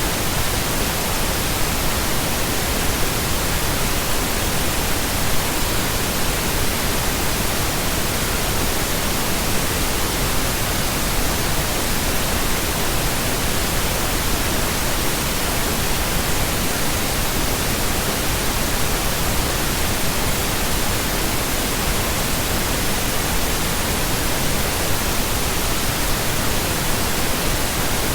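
Steady, unbroken pink noise: an even hiss spread across all pitches, with no tones, clicks or changes.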